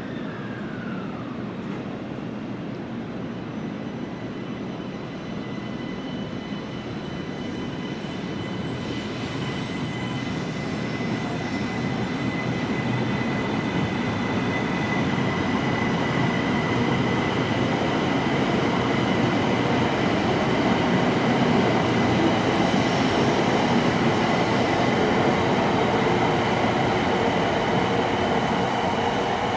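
Shinkansen bullet train running at the station: a steady rumble that grows louder over about fifteen seconds, with a thin high whine, then holds loud until it starts to fade at the very end.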